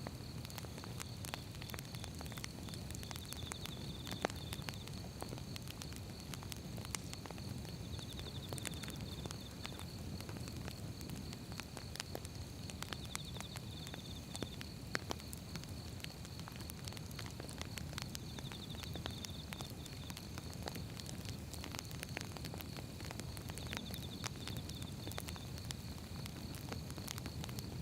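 Firewood burning: irregular crackles and pops over a low, steady rumble of the flames.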